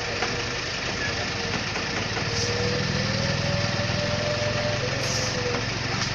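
Concrete mixer truck's engine running steadily, its pitch rising a little about halfway through and settling back near the end.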